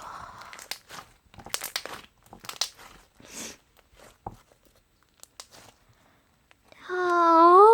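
Slime being squished and pulled in the hands, giving irregular crackling, popping clicks and short squishes. Near the end a person hums a steady note that rises slightly, louder than the slime.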